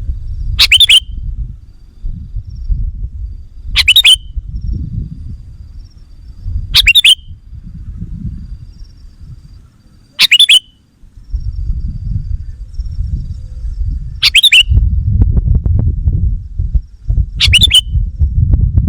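Sooty-headed bulbul (kutilang) giving a short, sharp call six times, about once every three seconds, over a low rumbling noise that gets heavier in the second half.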